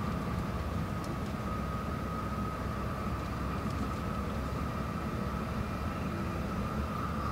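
Steady interior running noise of an E6 series Komachi shinkansen car cruising on the Tohoku Shinkansen: a constant low rumble with a steady high whine over it.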